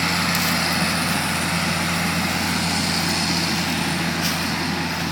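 A vehicle engine running steadily, a constant low hum under an even rushing hiss.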